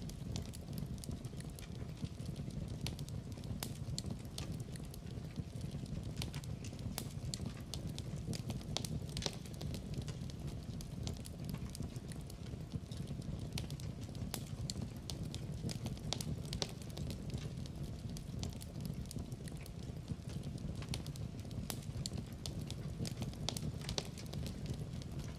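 Wood fire burning in a fireplace: a steady low rumble of flames with frequent sharp pops and crackles scattered throughout.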